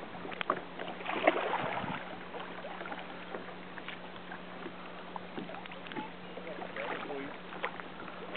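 Water lapping and small splashes around a kayak at sea, with a few sharp knocks and taps in the first two seconds.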